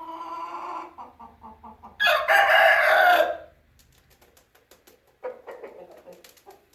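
Aseel rooster crowing and clucking: a pitched call at the start, a quick run of clucks, then a loud harsh crow about two seconds in lasting over a second, followed by softer clucks.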